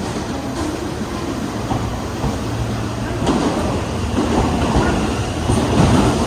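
Meitetsu 3100 and 3500 series electric train pulling out of a station, its motors and wheels getting louder as it gathers speed, with a sharp knock about three seconds in as the wheels cross a rail joint.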